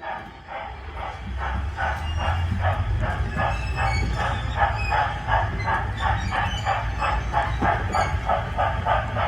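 Miniature ride-on train pulling away and running: an even chuffing rhythm of about three beats a second, growing louder over the first couple of seconds, over a steady low rumble.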